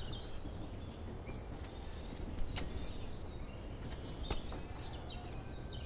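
Small birds chirping again and again over a steady background hiss, with a couple of faint clicks.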